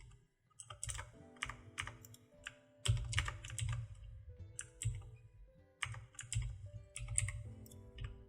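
Computer keyboard being typed on: irregular clusters of key clicks with dull thumps underneath, starting about a second in.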